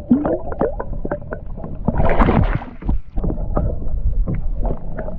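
Knocks and clatter of handling aboard an Old Town Sportsman PDL 120 kayak, with a short splash about two seconds in as a bass is let back into the water.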